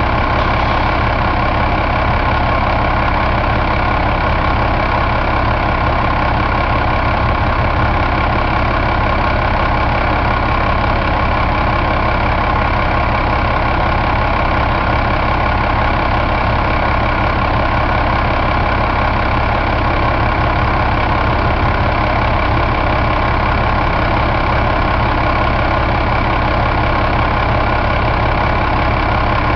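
2009 Cummins ISX inline-six diesel engine idling steadily.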